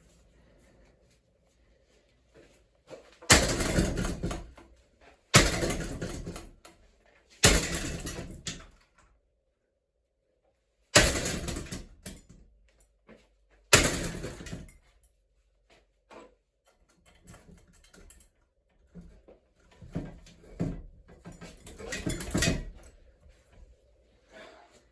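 Ceiling fan being smashed: five heavy blows a couple of seconds apart, each ringing out for about a second, then a run of lighter knocks and clattering of loose parts.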